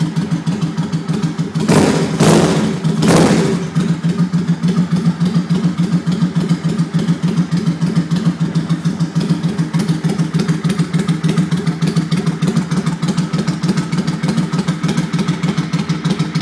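2002 Suzuki Volusia's 805 cc V-twin idling through aftermarket Vance and Hines pipes, with a quick, even exhaust pulse. Two or three brief, louder bursts come about two seconds in.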